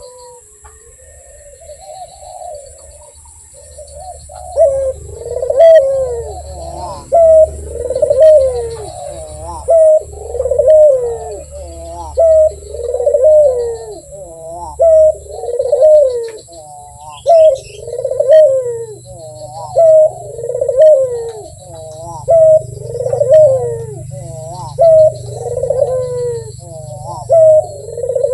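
Puter, the Barbary (ringneck) dove, cooing over and over in a steady rhythm, each call a short note followed by a longer arched coo. The calls are soft at first and become much louder about four seconds in, then repeat roughly every second and a quarter.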